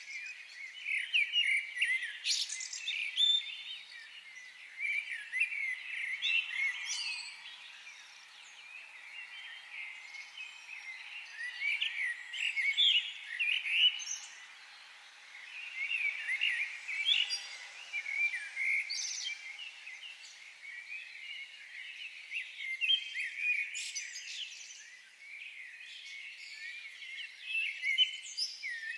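Several songbirds chirping and trilling, many short high calls coming in clusters, over a faint steady background hiss.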